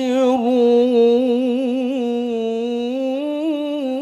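A man reciting the Quran in melodic tilawah style, drawing out one long vowel in a single breath. The note wavers in quick trills for the first couple of seconds, then holds steadier, rising slightly near the end.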